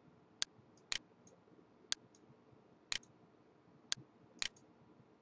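Computer mouse clicking: about seven sharp, short clicks, mostly about a second apart, a couple following the previous one by half a second.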